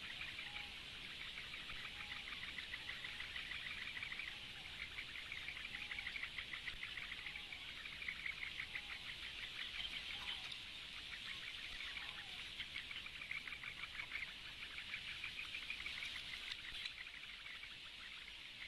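Reedbed wildlife: a rapid, high chirring trill that repeats in phrases of a second or two, with soft, short, lower calls about once a second through the first part.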